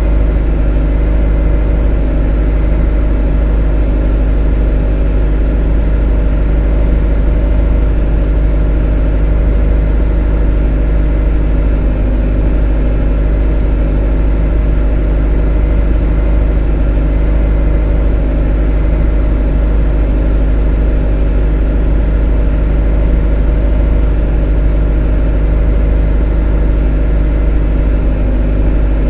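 A motor running steadily at an even speed: a loud, unchanging low drone with a steady hum of tones above it.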